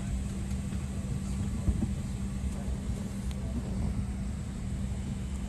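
Steady low hum of an airliner cabin before takeoff, with a single thump about one and a half seconds in.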